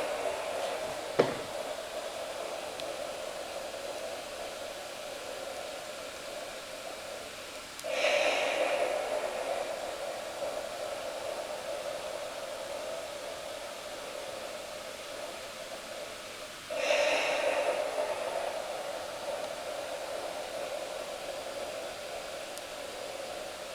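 Electric blower fan of a Halloween inflatable running steadily. About every nine seconds a louder breathy hiss swells in and fades over a second or two, the decoration's looping sound effect. A single sharp click comes about a second in.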